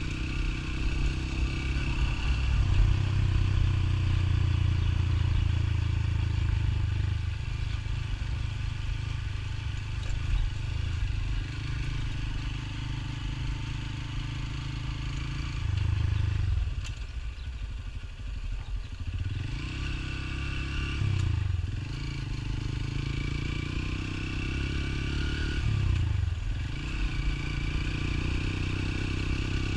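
Motorcycle engine running while riding, its pitch rising and falling with the throttle, with short dips about halfway through and again near the end, as with gear changes.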